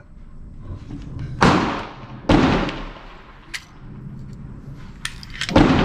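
Three .22 LR shots from an AR-15 pistol fitted with a CMMG .22 LR conversion kit and a muzzle brake: one about a second and a half in, another just under a second later, and a third near the end, each ringing out briefly, with a few faint clicks between.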